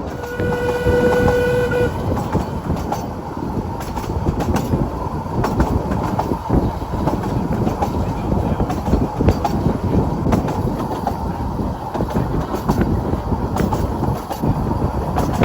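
A narrow-gauge train gives one short whistle blast, held for under two seconds near the start, then runs on with a steady rumble and wheel clatter on the rails.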